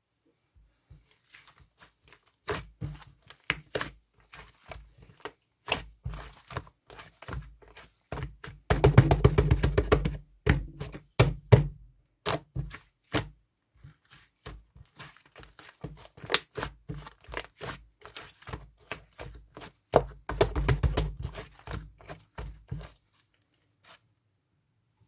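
White slime being squished and pressed by hand, giving sticky clicks and crackling pops, with two stretches of rapid crackling about nine and twenty seconds in.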